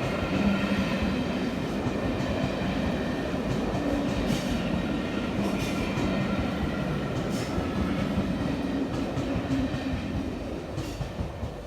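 A train passing at track level: a steady rumble with a faint whine, wheels clicking sharply over rail joints a few times, fading away near the end.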